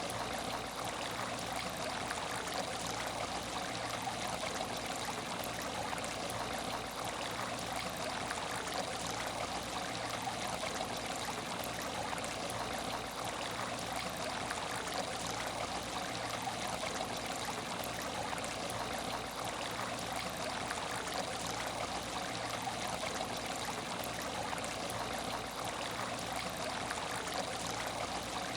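Water in an empty aquarium tank trickling and splashing steadily, as from a filter outflow returning water to the surface.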